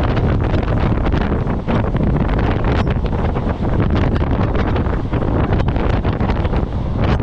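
Electric multiple-unit local train running between stations: a steady heavy rumble with irregular clatter, and wind buffeting the microphone.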